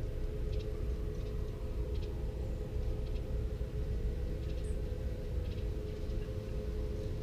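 Short, high bird chirps repeated every second or so, with a couple of higher notes, over a steady low rumble and hum.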